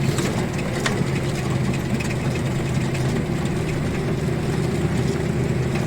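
ZIL-130 truck's petrol V8 running steadily as the truck drives along, a constant low engine hum.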